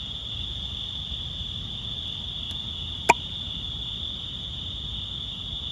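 Crickets chirring in a steady, unbroken high-pitched chorus. A single sharp click cuts through about three seconds in.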